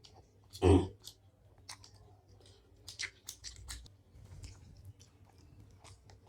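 Close-up eating sounds of syrupy Bengali sweets being chewed: scattered wet chewing clicks and smacks, with one short, much louder sound a little under a second in.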